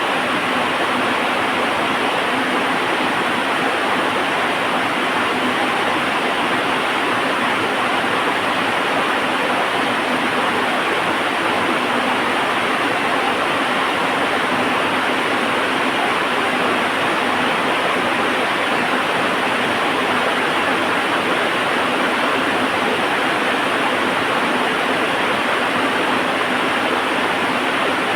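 Heavy rain falling steadily, an even hiss with no let-up or single strikes standing out.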